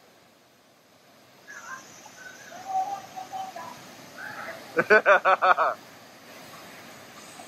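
A bird calling close by: a few softer notes, then about halfway through a loud rapid run of about seven notes lasting under a second, over the steady rush of a waterfall.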